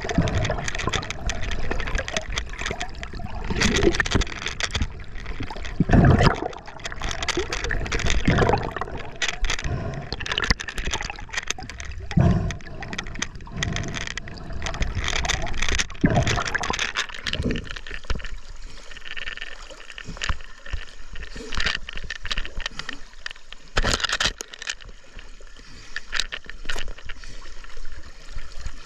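River water splashing and gurgling right at the camera's microphone in irregular surges, settling to quieter sloshing with scattered sharp clicks after about 18 seconds.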